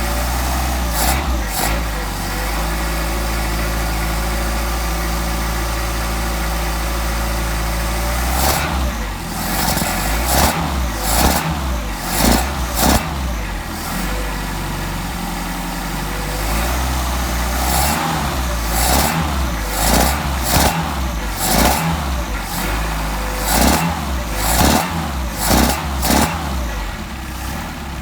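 Mercedes 190SL four-cylinder engine with twin Solex carburetors running while it warms up. It runs steadily at first, then from about eight seconds in it is revved in many short throttle blips, the pitch rising and falling with each.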